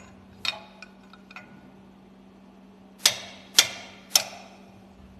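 Hand tools knocking on the steel parts of a marine diesel's fuel injection pump: a few light metallic clicks, then three sharp ringing knocks about half a second apart, over a steady low hum.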